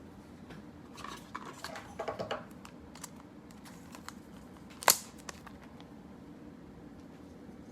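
Trading cards being handled: soft rustling and a cluster of small clicks a second or two in, then a single sharp tap about five seconds in.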